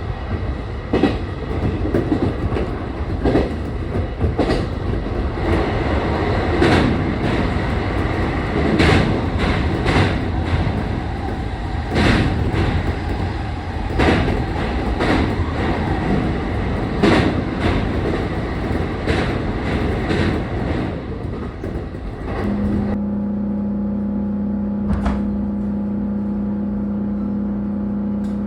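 Train running, a steady rumble with repeated sharp clacks of the wheels over rail joints. About 23 seconds in the sound changes suddenly to a steady low hum with a single click a couple of seconds later.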